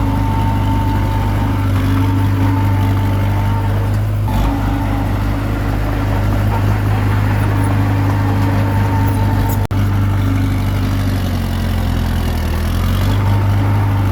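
Komatsu D21P bulldozer's diesel engine running steadily at work, with a momentary break in the sound about ten seconds in.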